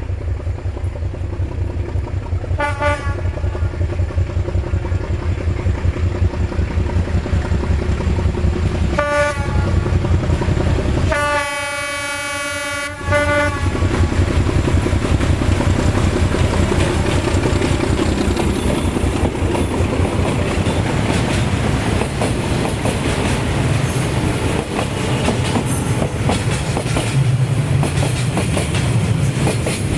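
D12E diesel locomotive hauling a freight train: its engine runs with a low rumble, it sounds two short horn blasts and then one long blast about eleven seconds in, and the wagons then clatter past over the rail joints.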